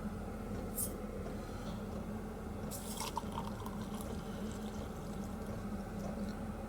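Faint water dripping and trickling as a coffee pot is filled, with a few light clicks, over a steady low hum.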